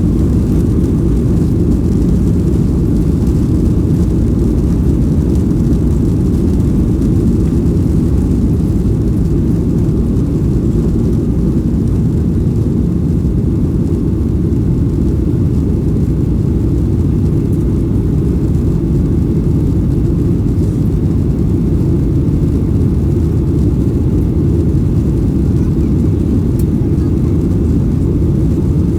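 Steady low roar of a Boeing 737-800's CFM56-7B jet engines and airflow, heard from inside the passenger cabin, with no change in pitch or level.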